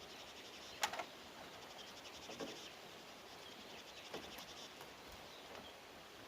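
A few sharp knocks on bamboo, two close together about a second in and softer ones later, over a steady high insect trill.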